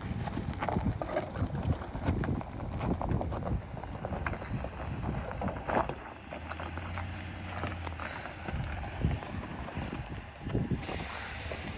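2020 Ram 1500 Rebel pickup driving slowly over a rough mountain trail: a steady low rumble of the engine and tyres, broken by many short knocks and rattles as the truck jolts over the bumps, with wind on the microphone.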